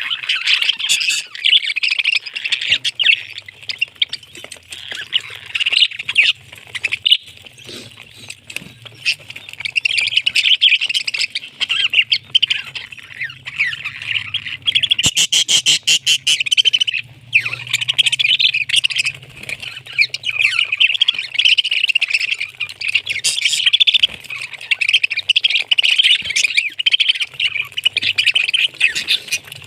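Parrot chattering and squawking almost without pause, a dense stream of high chirps and squawks.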